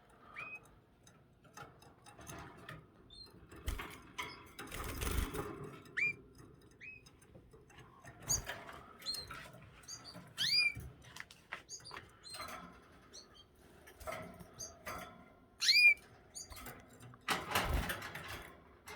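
Canaries giving short rising chirps, scattered through the whole stretch and some in quick runs. There are two short bursts of noise, about five seconds in and near the end.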